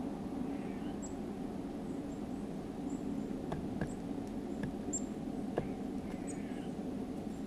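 Small songbirds at a feeder giving short, very high chip notes every second or so, with a few sharp taps about halfway through, over a steady low background hum.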